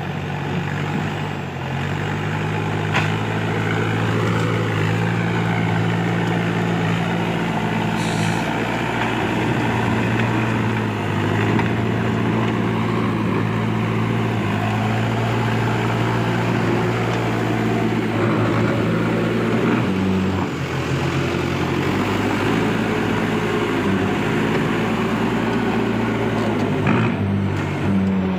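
Diesel engine of a Case heavy tractor running steadily under load, its pitch dipping briefly and settling again about two-thirds of the way through.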